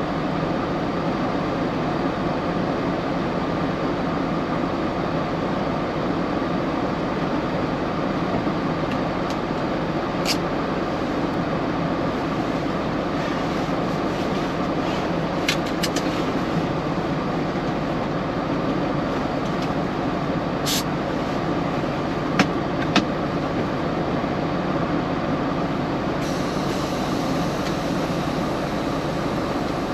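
Steady road and engine noise inside a moving semi-truck's cab, with a few short clicks partway through.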